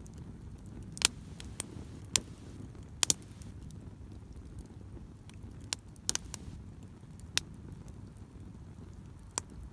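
Driftwood campfire crackling: irregular sharp pops, about a dozen, a few louder than the rest, over a low steady rumble.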